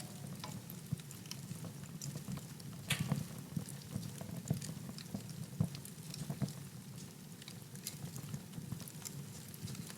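Wood fire burning in a fireplace: irregular sharp crackles and pops over a steady low rush of flame, with a cluster of louder pops about three seconds in.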